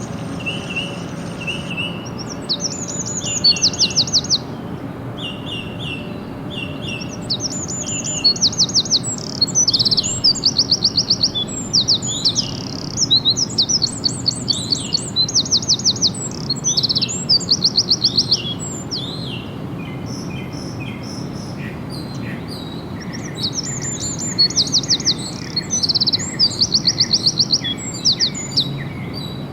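Songbirds singing: rapid high trills of evenly repeated notes, each about a second long, come again and again. A slower series of lower notes runs near the start and again in the second half. A steady high insect buzz runs under the first two seconds.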